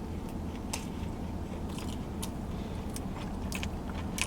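Close-up chewing of a crispy fried chicken sandwich: mouth smacks and crunchy clicks every half second or so, over a steady low hum.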